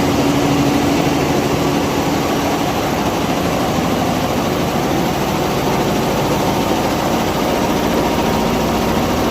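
Richpeace 20-head flat embroidery machine running, its needles stitching together in a steady, dense mechanical clatter with a faint hum.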